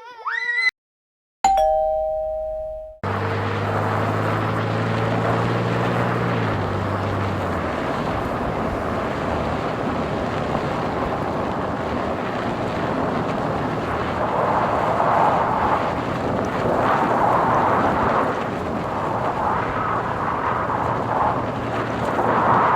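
A two-note ding-dong chime, then a car driving: steady road and engine noise with a low hum that fades out a few seconds after it starts.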